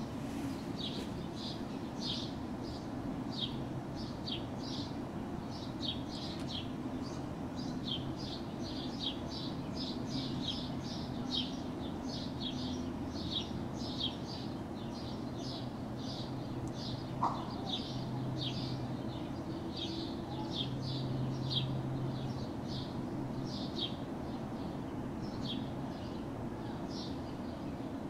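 Small birds chirping without pause, short high chirps a few times a second, over a steady low background hum of the city. One brief, sharper sound stands out a little past the middle.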